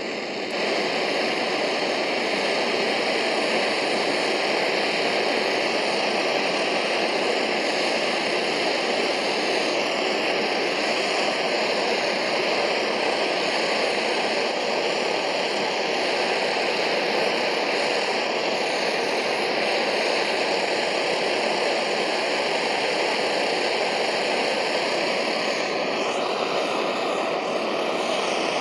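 Vintage gasoline soldering iron's burner lit and running, a constant rushing noise that stays steady throughout.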